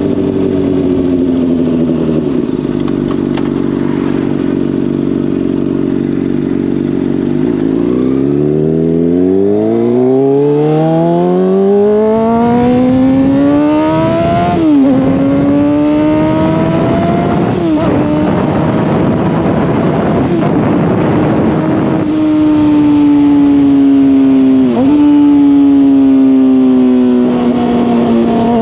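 Honda CBR600RR inline-four through a Hotbodies Stinger slip-on exhaust, heard from the rider's helmet. The engine holds low revs at first, then accelerates hard with the pitch climbing, with two quick upshifts about 15 and 18 seconds in. After that it cruises at a steadier, slowly falling note with one brief dip near the end, over wind noise.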